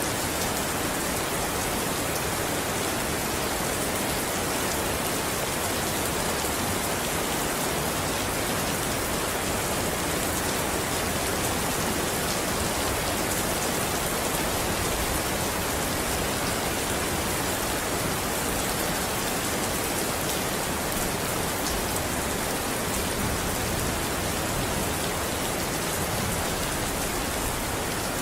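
Steady rain falling, an even hiss with no breaks and no thunder.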